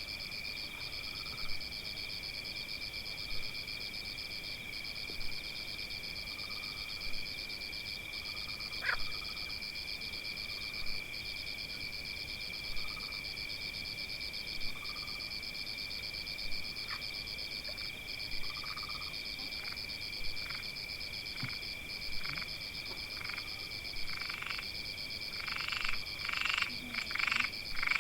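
Nighttime-style nature ambience: a steady high insect trilling, with a frog croaking about every two seconds. Near the end the frog calls speed up into a quick run of croaks.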